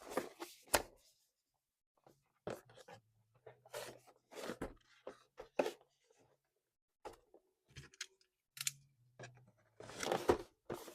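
Toy packaging being handled and torn open: irregular crinkling, tearing and clicking of plastic and cardboard in short bursts.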